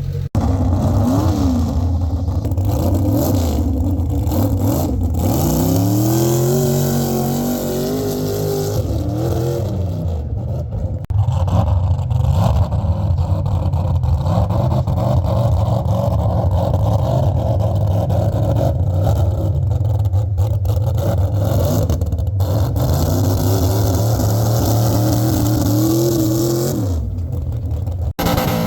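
Pickup truck engine revving hard, its pitch climbing and dropping again and again, with two brief breaks.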